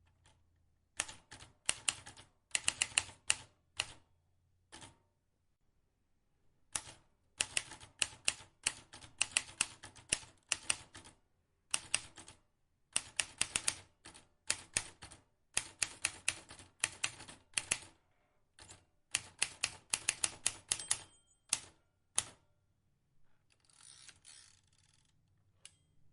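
Vintage typewriter keys striking in quick runs of typing, several clicks a second, with a pause of about two seconds early on. Near the end the clicks give way to a softer, scratchier sound.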